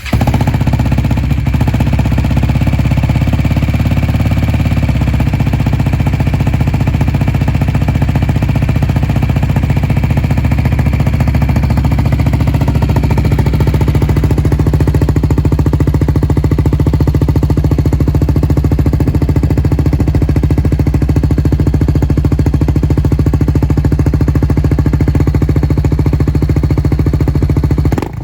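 BMW G 310 GS single-cylinder engine idling steadily just after a cold start, through a Leo Vince LV One Evo full-system exhaust with the baffle fitted. The idle is loud and even, with no revving.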